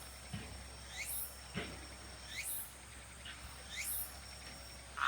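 Insects singing, faint: a steady high trill with a quick rising chirp repeating about every second and a half.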